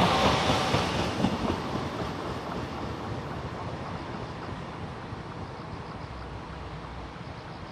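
The Gangwon Sea Train running along the rails. Its last cars pass in the first second or so with a few wheel clacks, and then its rumble fades steadily as it pulls away.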